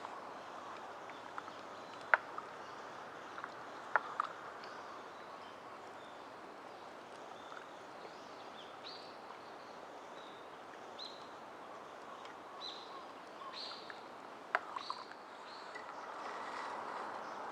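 Small birds calling in short high chirps through a steady outdoor hiss, with a few sharp cracks scattered through it.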